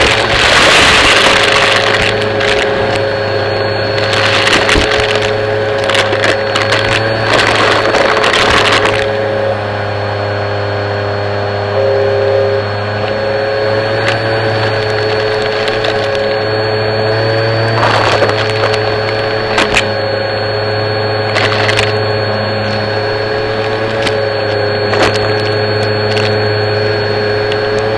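Vacmaster vacuum cleaner running with a steady motor whine and hum, its pitch dipping slightly a few times. Debris crackles and rattles as it is sucked up, heavily for the first nine seconds or so, then only in occasional clicks.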